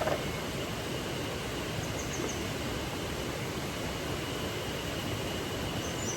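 Steady rushing of a flowing river, with a couple of faint high chirps about two seconds in and again near the end.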